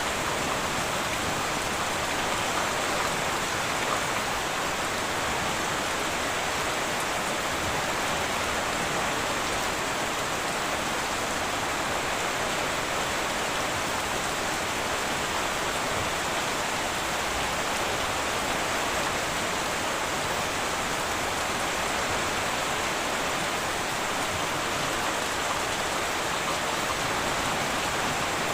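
Heavy rain falling steadily on a tin roof, an even, unbroken hiss of drops with no thunder.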